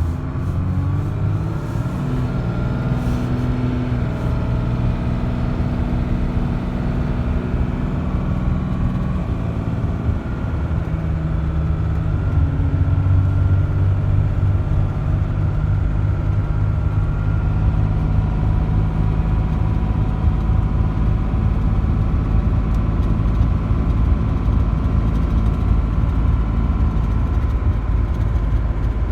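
Dodge diesel pickup under way, its engine pulling the truck away and accelerating. The engine note changes about nine seconds in, then runs louder and steady.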